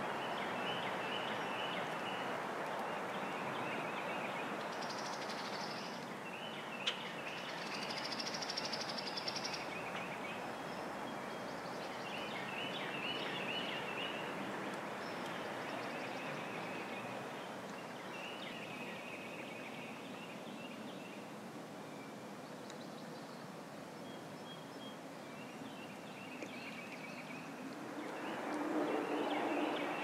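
Birdsong: short chirping phrases repeated every few seconds, over a steady outdoor background hiss, with one sharp click about seven seconds in.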